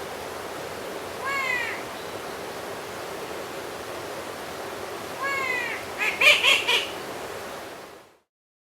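A bird giving short, falling calls, three times, then a quick cluster of louder notes, over a steady hiss of rain in woodland. The sound cuts off suddenly near the end.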